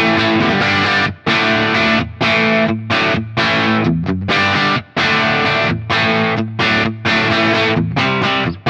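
Electric guitar played through a Crazy Tube Circuits Stardust V3 overdrive pedal into a Marshall JTM45 valve amp. It plays overdriven rhythm chords struck in short stabs with brief breaks between them.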